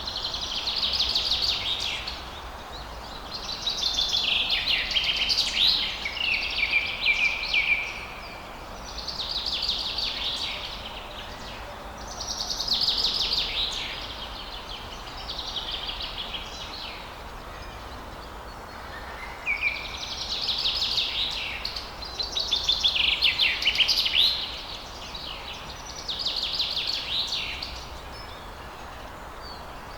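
Songbird song at dawn: repeated phrases of fast trills and warbles, each a couple of seconds long with short pauses between, over a steady faint background noise.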